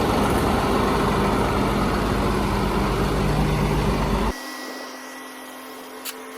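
A vehicle engine running steadily, which cuts off abruptly a little over four seconds in, leaving a much quieter background.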